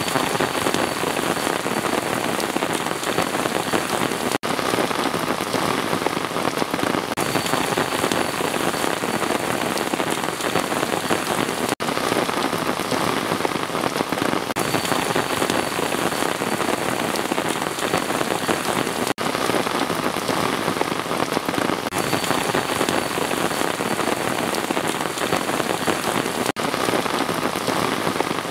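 Steady, dense rain falling on a surface, an even close patter of drops. Very brief dropouts come about every seven seconds.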